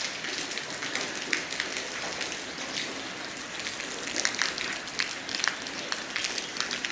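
Steady rain falling, with many sharp drops pattering on a hard surface close by.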